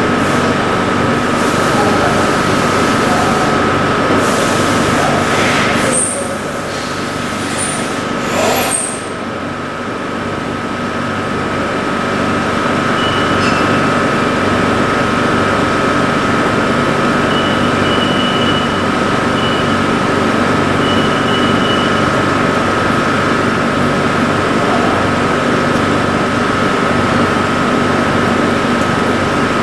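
LarsLap Model C1 valve grinder running steadily: a continuous mechanical drone with a constant high whine. The level dips briefly partway through, with a few short high squeaks.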